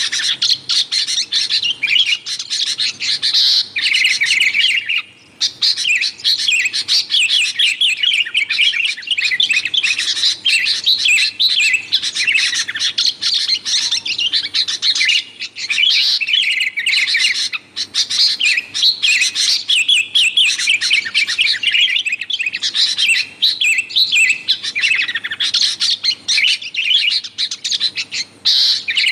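Sooty-headed bulbul (kutilang) calling noisily, a near-continuous stream of quick chirps and warbled phrases with only a couple of brief pauses.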